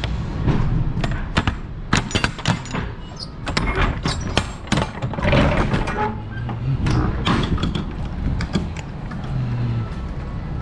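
A quick series of sharp clicks, knocks and rattles of things being handled, thickest in the first half, over a low steady rumble.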